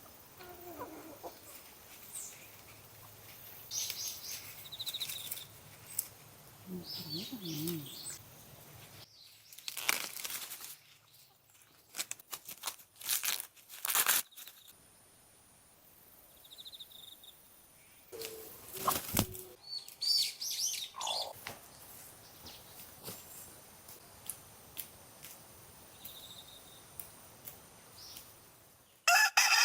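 Scattered small bird chirps with intermittent rustling and clicking handling noises, and a rooster beginning a loud crow right at the end.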